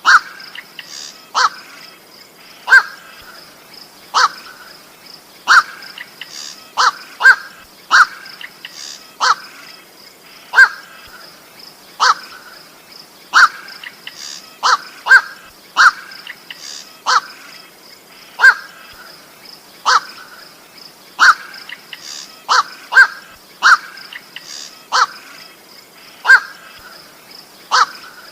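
Night heron (koak) giving short, harsh single calls, repeated about every second and a half, some in quick pairs, over a steady high-pitched buzz.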